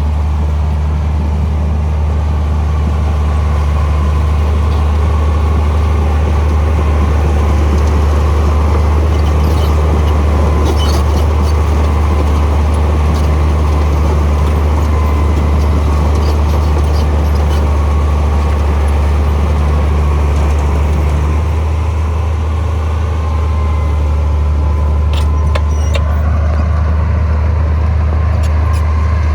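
Heavy diesel earthmoving machinery running steadily with a deep, continuous drone. A few sharp clicks come about ten seconds in and again about twenty-five seconds in.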